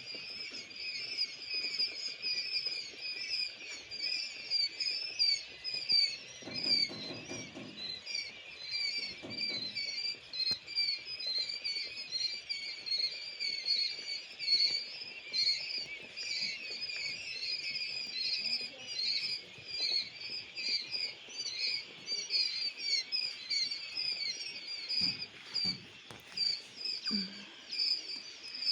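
Newly hatched quail chicks, two days old, peeping continuously. Many short, high peeps overlap, several a second.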